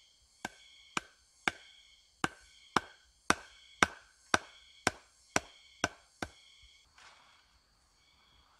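Twelve sharp strikes of a tool on wood at about two a second, stopping about six seconds in, as in chopping wood for a bushcraft shelter.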